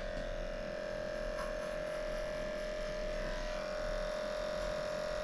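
Electric dog grooming clippers running with a steady, unchanging hum.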